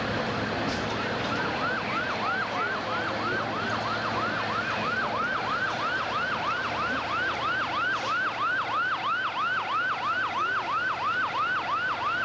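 Emergency-vehicle electronic siren on a fast yelp, sweeping up and down about three times a second. It starts about a second in, over steady street noise.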